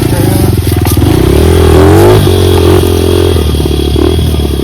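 Dirt bike engine running under load on a trail ride, revving up briefly about a second and a half in, then dropping back to a steady pull.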